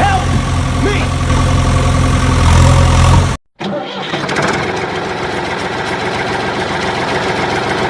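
A small engine runs steadily at idle, then after an abrupt cut about three and a half seconds in, a rougher, rattling engine sound takes over.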